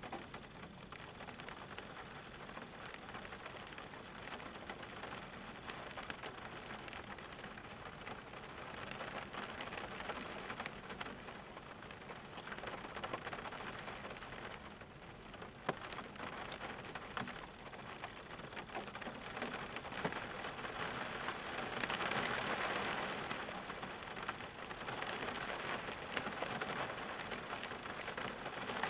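Steady rain falling and pattering on surfaces, with many single drops ticking. It gets heavier about two-thirds of the way through and again near the end.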